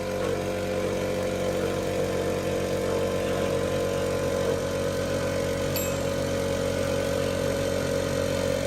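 Motorbike engine idling steadily, an even hum with no revving.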